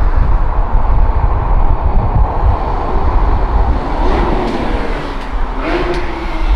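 Porsche GT3 RS 4.0-litre flat-six engine running under way, heard from inside the cabin over heavy low road rumble. The engine pitch swells briefly twice in the second half.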